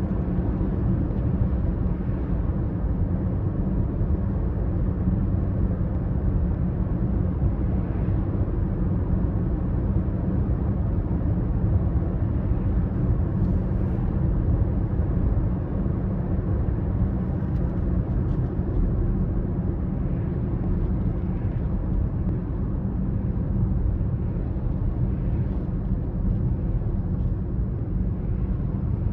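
BMW X5 30d's three-litre straight-six diesel running at a steady cruise under a steady low rumble of the car on the move, with no revving or gear changes.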